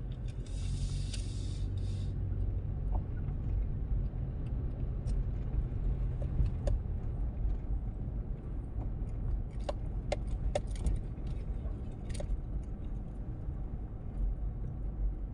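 Road noise inside a moving car: a steady low rumble of engine and tyres. A hiss sounds for the first two seconds, and light clicks and rattles come here and there.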